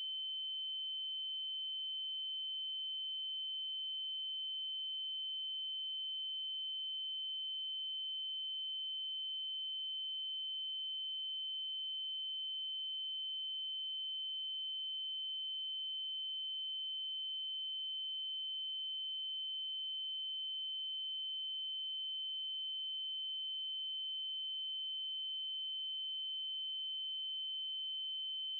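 Steady electronic 3072 Hz triangle-wave tone: a single high pitch held without any change.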